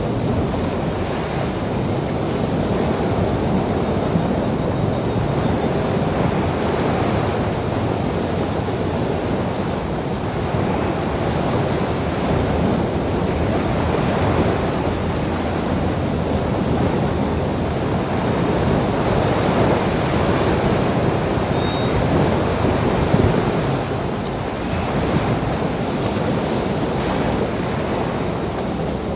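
Ocean surf washing continuously on a beach, swelling and easing gently, with wind noise on the microphone.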